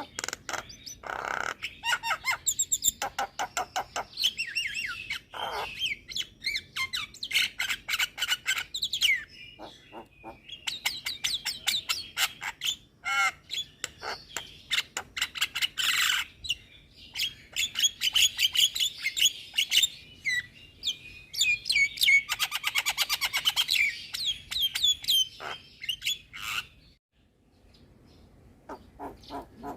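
Javan myna (jalak kebo) singing a long, fast chattering song of rapid clicks, harsh squawks and whistled notes, broken by a brief pause near the end.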